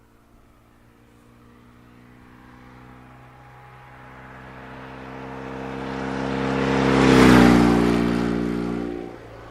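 1963 BMW R69S's 594cc air-cooled flat-twin engine as the motorcycle rides past at a steady speed: the note grows louder to a peak about seven seconds in, drops slightly in pitch as it goes by, then fades away.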